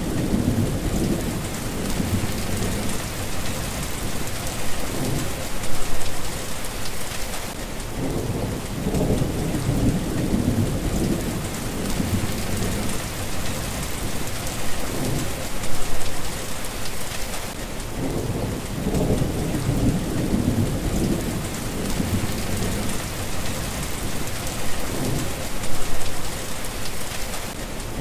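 Steady rain with low thunder rumbling underneath, swelling louder three times, about ten seconds apart.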